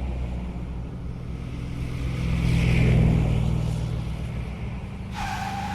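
Engine sound of a car or truck, steady and low, swelling to its loudest about three seconds in and easing off. A steady higher tone comes in near the end.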